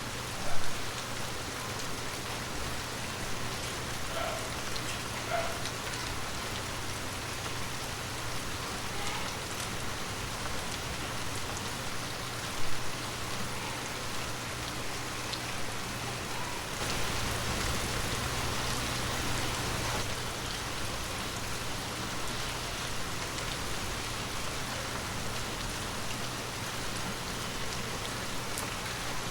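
Heavy rain falling steadily, a dense even hiss of drops on hard surfaces. There are two brief louder hits, about half a second in and again about 12 seconds in, and the rain swells a little heavier for a few seconds past the midpoint.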